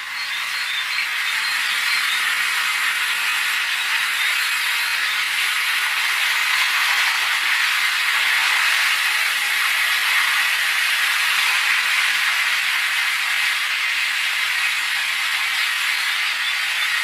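Steady rushing hiss of flowing water, building up over the first second or two and then holding evenly.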